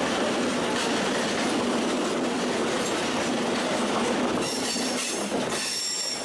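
MEMU electric commuter train running along the track, a dense steady rumble with a low hum. From about four and a half seconds in, the wheels squeal in high thin tones.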